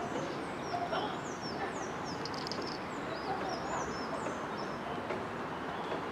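Many short, high-pitched bird calls, each note sliding down in pitch, come in quick irregular succession for the first four seconds or so, over a steady background rush.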